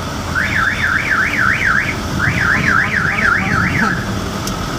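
Electronic siren-type alarm warbling rapidly up and down, about three sweeps a second, in two bursts of under two seconds each with a short break between. A truck engine rumbles steadily underneath.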